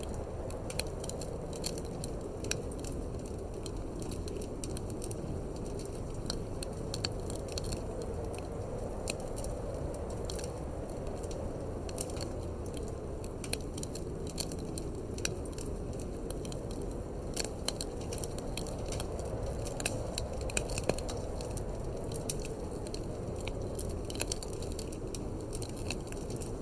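Wood fire crackling in a fireplace, with irregular sharp pops and ticks, over a steady low rush of wind.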